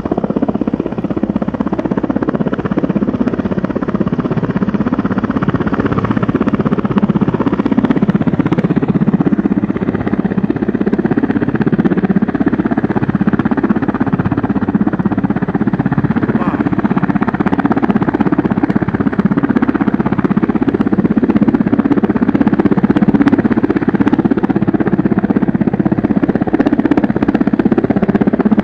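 A motor engine running steadily and loudly, with a continuous fast-pulsing rumble.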